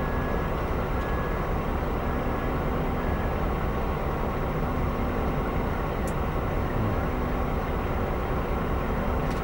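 DB Class 103 electric locomotive and its train of coaches rolling past, a steady rumble with a faint steady hum.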